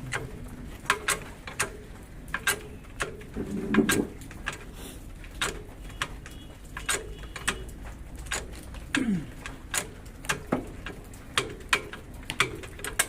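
Irregular sharp metal knocks and clicks, roughly one or two a second, from tools working on a car's front wheel hub while a worn wheel bearing is being removed.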